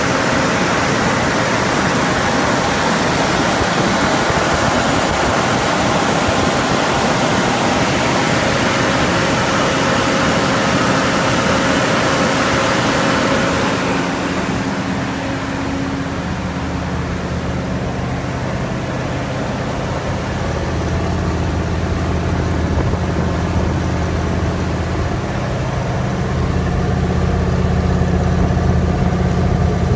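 1972 Chevrolet Corvette V8 idling steadily. First it is heard at the open engine bay with a bright mechanical whir. About halfway through it is heard at the rear exhaust outlets, where a deeper, even exhaust note takes over.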